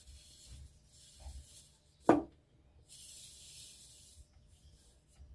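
Two spells of light rubbing or scraping, with one sharp knock about two seconds in, which is the loudest sound.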